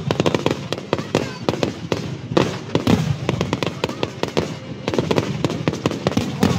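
Aerial fireworks display: a dense, unbroken barrage of shell bursts and crackling bangs, many per second.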